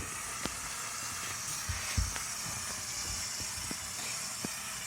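Lego Technic pulling tractor's electric motors and gear train running under load, a steady high whir with scattered clicks and knocks from the gears and tyres.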